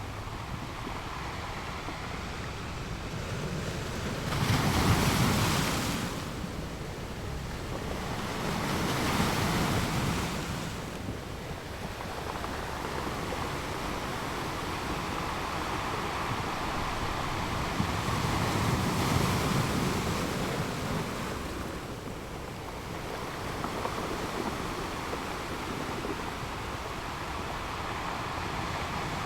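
Ocean waves breaking and washing ashore in slow swells every few seconds, the loudest about five seconds in, with wind on the microphone.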